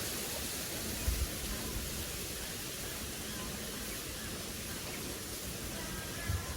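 Steady hiss of heavy rain falling, with a couple of brief low thumps, one about a second in and one near the end.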